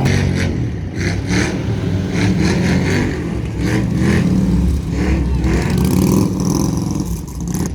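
Classic car engines running low and steady as cars move past.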